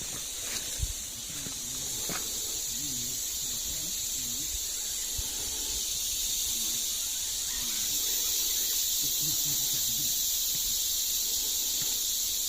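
Cicadas singing: a steady, high-pitched shrill drone that grows a little louder about eight seconds in.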